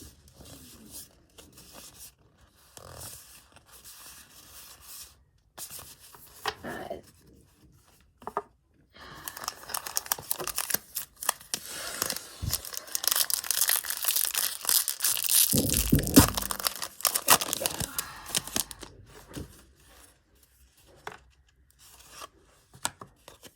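Trading-card pack wrapper being torn open and crinkled, with light rustling at first and a long, loud stretch of tearing and crackling in the middle, including one low thump.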